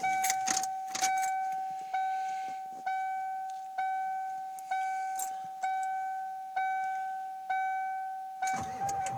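Pickup truck's dashboard warning chime dinging steadily, about once a second, each ding a single clear tone that fades away, while the 7.3 L Powerstroke diesel's glow plugs heat during the wait-to-start period. Near the end a louder rumbling noise sets in under the chime.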